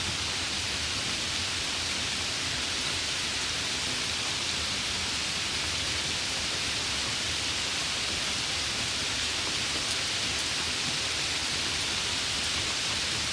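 Steady rain, an even hiss of falling water with faint scattered drop ticks.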